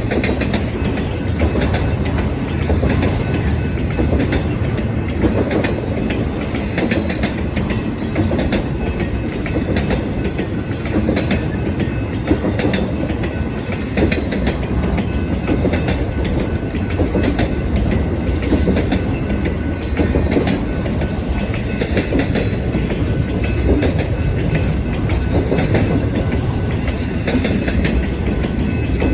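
Intermodal freight train cars rolling past, their steel wheels clicking and clattering over the rail joints in a steady rumble.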